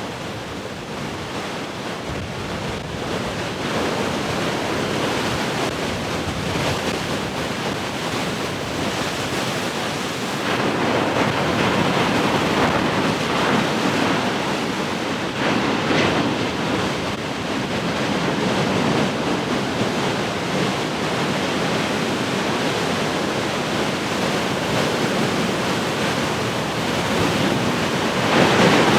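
Heavy ocean surf: large waves breaking and washing in a continuous rush, swelling louder about a third of the way in and again near the end.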